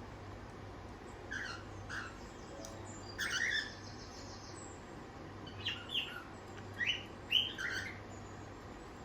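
Cockatiels chirping: a string of short calls at irregular intervals, over a faint steady low hum.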